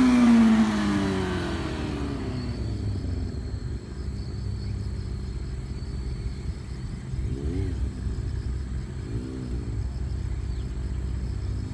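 Suzuki Impulse motorcycle engine with an unbaffled Big One slip-on silencer, dropping back from a rev to a deep, steady idle. Two short throttle blips come partway through, and it starts revving up again at the end.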